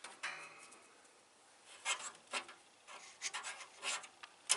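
Short scratchy rubbing strokes, about six of them spread out, with the sharpest near the end: scrubbing dust and grime off a box fan motor's coils.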